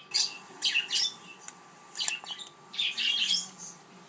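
Pet parrots squawking, a string of high-pitched calls about once a second.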